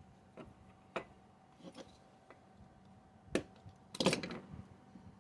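A few light clicks and taps of small hobby tools against plastic model parts, with a sharper tap about three seconds in and a short scratchy rustle just after.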